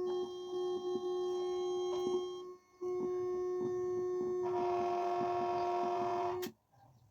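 A steady electronic tone with overtones from an amplifier's speaker. It drops out briefly about two and a half seconds in, sounds fuller for the last two seconds, then cuts off suddenly.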